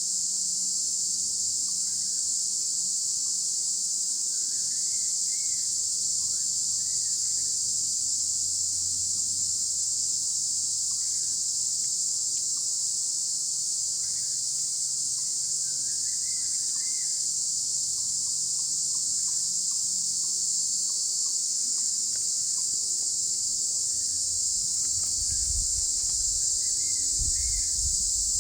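Steady, unbroken high-pitched insect chorus, with faint bird chirps a few times and a low rumble near the end.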